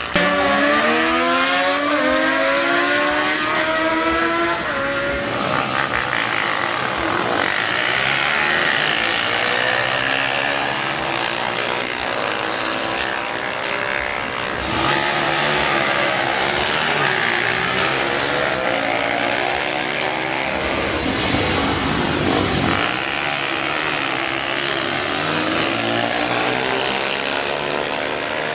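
Racing engine accelerating hard in a drag race, its pitch climbing and then dropping back at each gear change in the first few seconds. Loud engine noise from racing vehicles continues after that.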